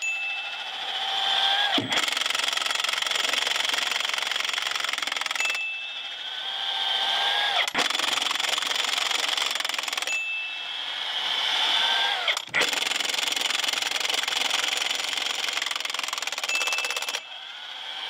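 Milwaukee M18 FUEL 1-inch D-handle cordless impact wrench hammering on Budd wheel nuts on semi-truck rims. It runs in about four long bursts, each with a rising whine and each cut off suddenly, taking the nuts off one after another.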